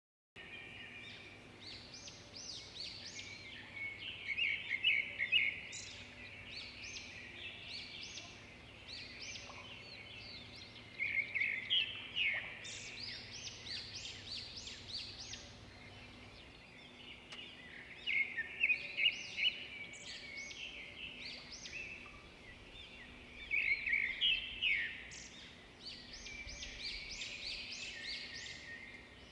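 Wild songbirds singing and calling, with bursts of quick, high chirping notes every few seconds over a steady background hiss.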